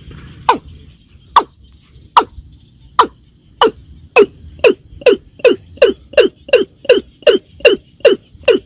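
Watercock calling: a run of short, sharp 'kok' notes, each falling in pitch, that speeds up from about one a second to two or three a second.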